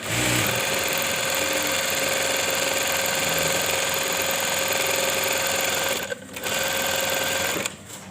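Typical sewing machine running steadily as it stitches. It pauses briefly about six seconds in, runs again, and stops shortly before the end.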